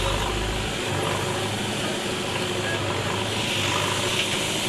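Diesel engine of earth-moving machinery running steadily, with a constant mechanical din around it; the deepest rumble drops away about a second in.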